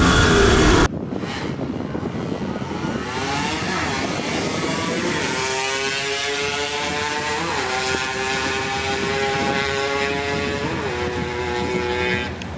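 A loud engine that cuts off abruptly about a second in. It is followed by a quieter engine running at a high pitch, which climbs over a few seconds and then holds steady, with two brief wobbles in pitch.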